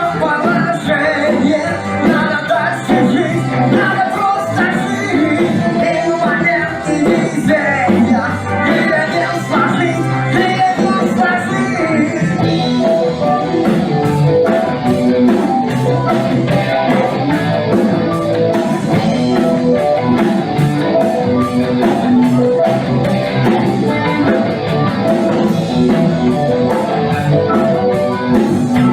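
Rock band playing with guitars and a drum kit, with singing over roughly the first twelve seconds; after that the drums keep a steady beat.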